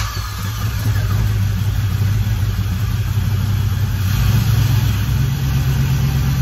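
Small-block Chevy 350 V8 with Holley Terminator fuel injection running at a steady idle just after being fired up. It is running better now that its stuck-open injectors have been cleaned and a vacuum leak has been plugged.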